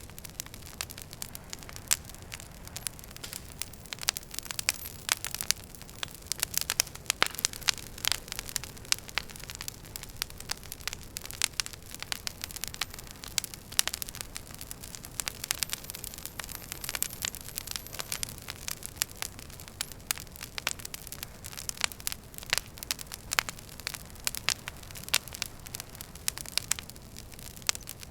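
Wood fire crackling in a fireplace: many sharp irregular pops and snaps over a steady low hiss.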